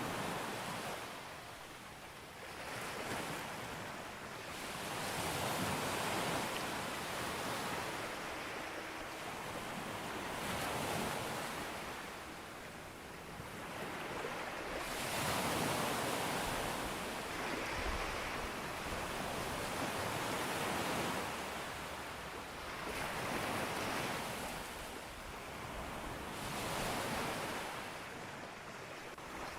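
Sea waves breaking on a beach, the surf swelling and washing back roughly every five seconds.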